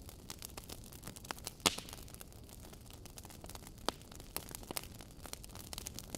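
Wood fire in a fireplace crackling, with irregular sharp pops and snaps over a faint hiss; the loudest pops come about one and a half seconds and about four seconds in.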